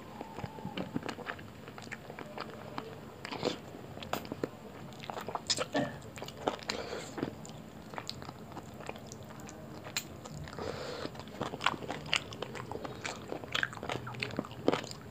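Close-miked chewing of soft roti and curry eaten by hand: wet mouth sounds with irregular lip smacks and clicks.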